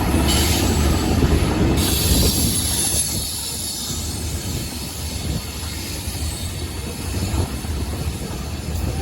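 A train rolling past with a steady low rumble and high-pitched wheel squeal, loudest in the first couple of seconds and easing off after about three seconds.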